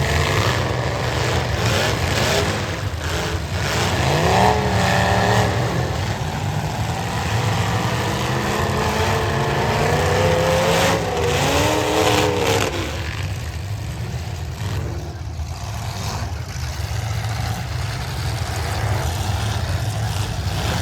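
Demolition derby cars running together in the arena, engines droning with pitch rising and falling as drivers rev them twice, and several sharp knocks in the first few seconds.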